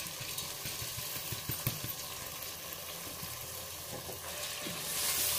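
Sizzling as wet soaked rice and lentils are tipped into a pot of hot oil and fried onion-tomato masala, with scattered light clicks of grains and a wooden spoon against the pot. The sizzle grows louder near the end.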